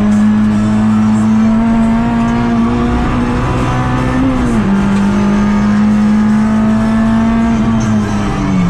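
Honda Integra Type R DC2's 1.9-litre Toda-built four-cylinder engine running hard at high revs, heard from inside the cabin; its pitch climbs slowly, then drops sharply about four and a half seconds in and holds steady again. Music plays underneath.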